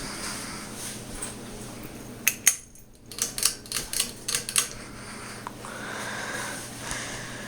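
King of Fans Heisman ceiling fan motor running with a steady low hum. About two seconds in comes a quick irregular run of sharp clicks and taps, lasting about two seconds.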